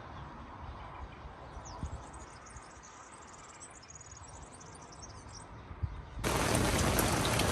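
Faint outdoor ambience with high, thin chirps of birds or insects; about six seconds in, a much louder steady noise like rain or traffic starts abruptly.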